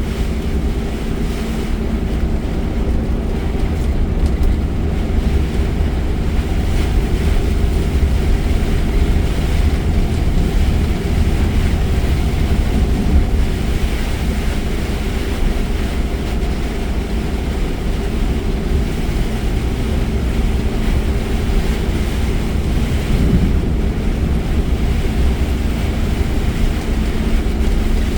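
Steady low road and engine rumble inside a car at highway speed, with an even hiss of heavy rain and wind against the car over it.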